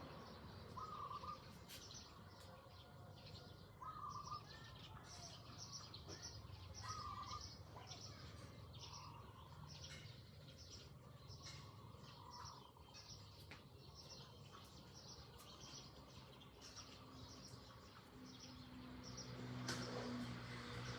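Faint rural outdoor ambience: birds chirping often, with one short call repeated about every three seconds in the first few seconds, over a steady low hum. A low drone grows louder near the end.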